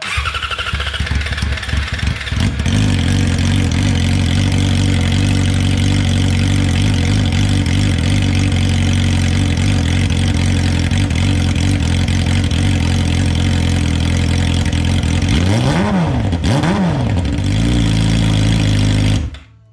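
2018 Yamaha R6's 600 cc inline-four, straight-piped with no muffler, starting up after sitting a couple of weeks. It runs unevenly for the first couple of seconds, then settles into a loud, steady idle. Near the end two quick throttle blips rise and fall before it cuts off suddenly.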